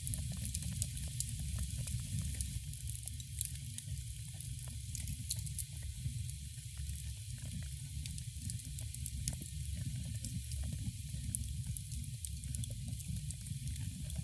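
Wood fire crackling in a fireplace: a steady stream of small sharp pops and snaps over a continuous low rumble.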